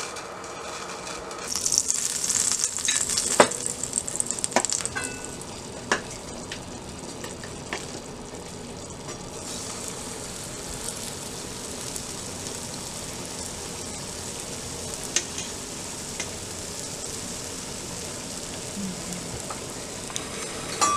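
Pancake batter sizzling in a buttered hot frying pan: a louder hiss about two seconds in, a few sharp clicks of a spoon against the pan, then a steady soft sizzle as the pancake cooks.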